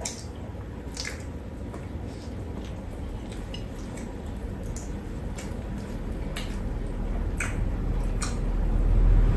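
People chewing soft egg sandwiches, with short wet mouth clicks and lip smacks every second or so. A low rumble swells near the end.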